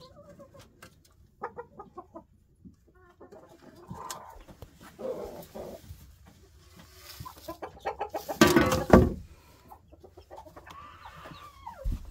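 Chickens clucking in short, scattered calls, with a sudden loud, harsh burst about eight and a half seconds in and a few falling calls near the end.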